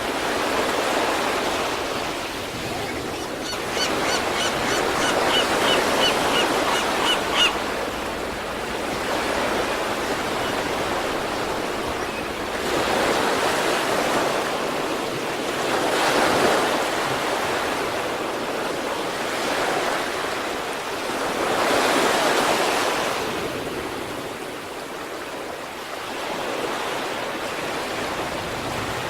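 Sea waves breaking and washing on the shore, the surf swelling and falling back every several seconds. About four seconds in, a quick run of short high-pitched tones, about three a second, goes on for some three seconds.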